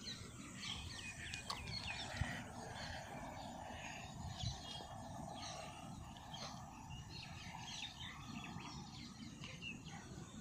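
Small birds chirping and calling faintly in short, repeated notes, over a steady background noise.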